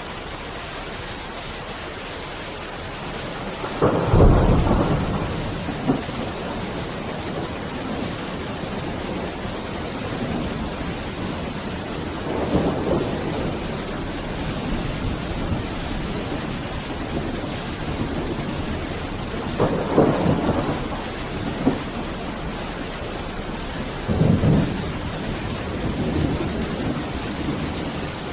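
Steady rain with thunder rolling four times: the loudest rumble comes about four seconds in, with further rumbles near the middle and twice in the last third.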